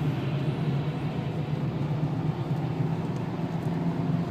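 Renault 2.0-litre turbo diesel four-cylinder engine droning steadily inside the car's cabin at low speed, with tyre hiss from the wet track.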